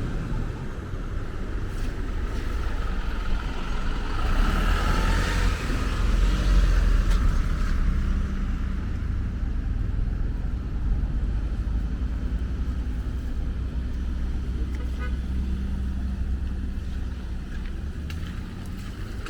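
Steady low traffic rumble, with a vehicle passing that swells and fades between about three and eight seconds in.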